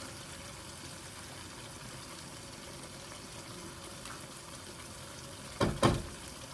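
A pot of curry sizzling gently and steadily on the stove as cashew paste is added. Two sharp knocks come close together near the end.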